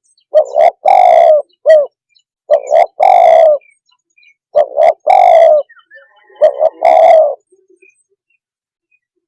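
Spotted dove (tekukur) cooing: four loud phrases about two seconds apart, each two short clipped notes and then a longer rolling coo, with one extra short note after the first. The calling stops about two seconds before the end.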